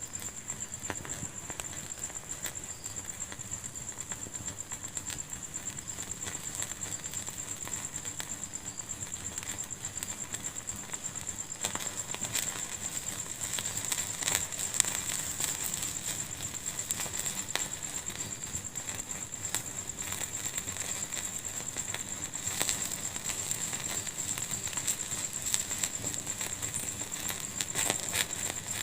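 Wood fire burning in a fireplace, crackling and popping continuously over a thin steady high tone; the pops grow louder and more frequent about twelve seconds in.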